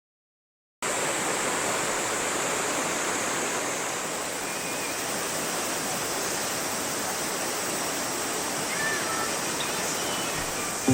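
Mountain river water rushing steadily, cutting in abruptly about a second in, with a few faint short chirps over it.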